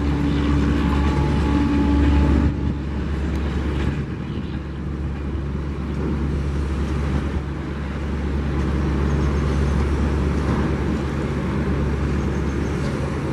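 Passenger train's coaches running over the rails as they pull away: a steady low rumble of wheels on track. The sound changes abruptly about two and a half seconds in.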